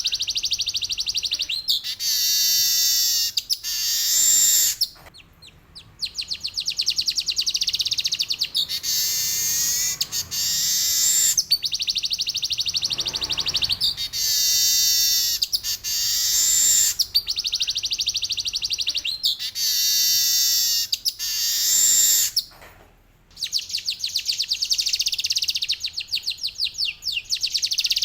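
Male manyar weaver bird singing: repeated high, fast buzzy trills, phrase after phrase with short breaks, pausing briefly twice.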